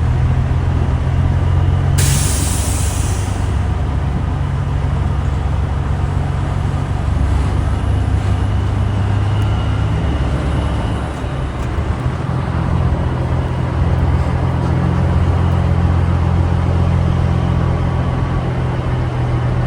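Semi truck diesel engine running steadily, with a sharp air-brake hiss about two seconds in that lasts about a second and a half.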